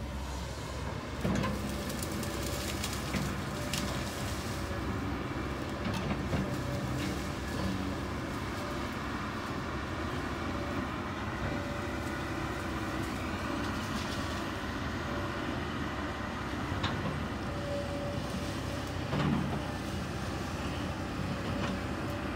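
Kobelco SK200 excavator's diesel engine running steadily as the machine works, with a few sharp knocks, the loudest about 19 seconds in.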